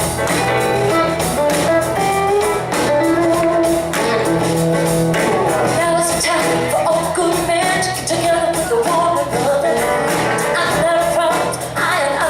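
Live band playing an upbeat rock number, with a woman singing the lead over guitar, bass and a steady drum beat.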